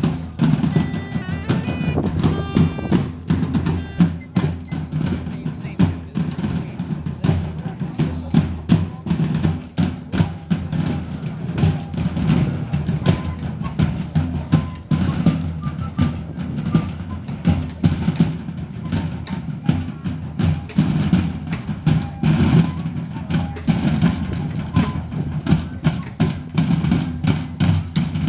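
A drum band playing: bass and snare drums beaten in a fast, steady pattern of strikes.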